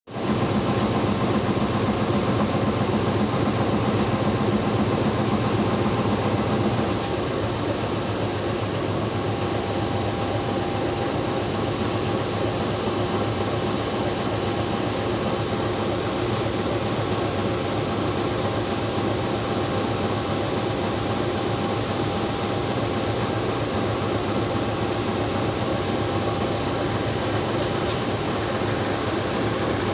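Steady rumble and hiss inside a Siantar Ekspres Premium passenger train carriage, with a hum like air conditioning and faint clicks now and then. A low hum drops away about seven seconds in, and the sound gets a little quieter.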